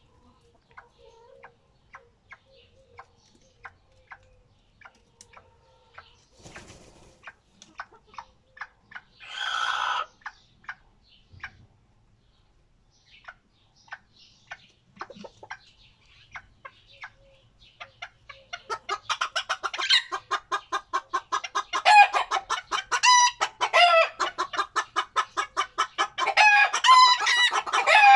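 Chickens clucking: sparse short clucks at first, then, about two-thirds of the way through, many birds clucking and calling rapidly and loudly. A brief burst of noise comes about a third of the way in.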